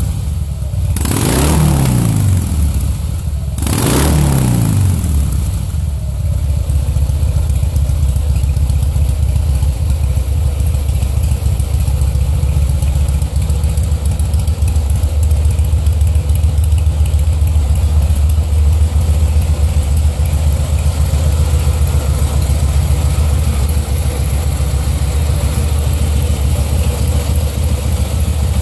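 2009 Harley-Davidson Rocker C V-twin, fitted with a Screamin' Eagle 80495-07 muffler, blipped twice in the first few seconds, the revs falling back after each, then settling into a steady idle.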